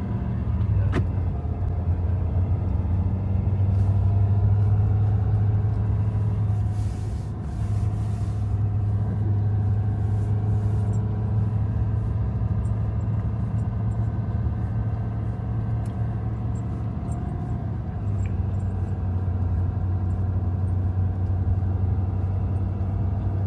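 Steady low drone of engine and road noise heard from inside a Ford Super Duty pickup's cab while cruising, easing off briefly twice.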